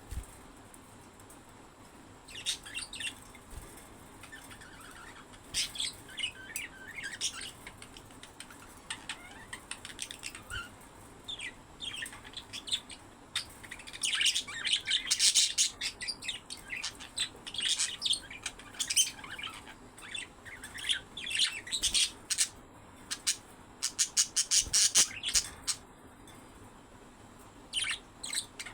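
Budgerigars chirping and chattering in short, quick calls that come in irregular bursts, busiest in the middle and again a few seconds before the end.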